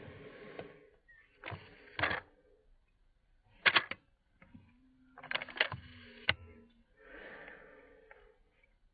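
A series of sharp clicks and knocks mixed with short bursts of rustling noise. The loudest is a quick double knock about four seconds in.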